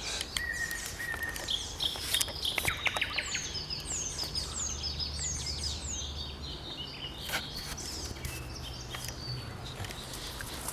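Several wild birds singing and calling together, with a run of high, repeated downward-sweeping notes among other chirps, over a low steady hum.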